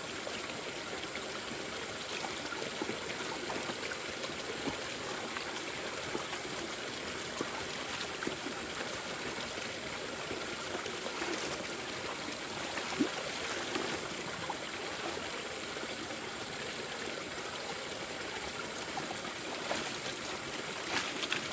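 Mountain stream flowing steadily over rocks, a constant rushing and trickling of water.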